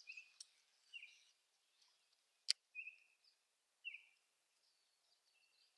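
Faint short bird chirps, repeated every second or so, with one sharp click about two and a half seconds in.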